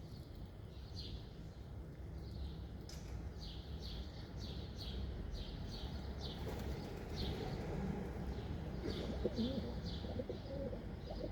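Pigeons cooing, the low wavering coos coming in about halfway and strongest near the end, over steady short chirps of small birds and a constant low rumble.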